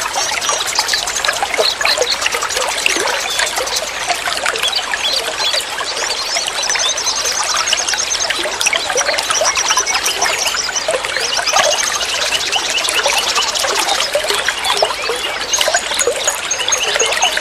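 Flowing water trickling and gurgling in a steady stream. Rapid high-pitched trills come and go above it several times.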